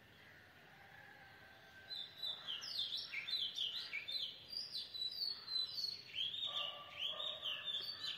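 Birds chirping and singing: a run of quick, sweeping chirps that starts about two seconds in, over a faint hiss.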